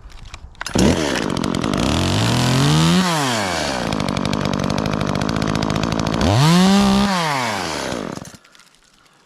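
Chainsaw running for about seven seconds while cutting off a branch stub on a pine tree, revving up and falling back twice, then stopping suddenly.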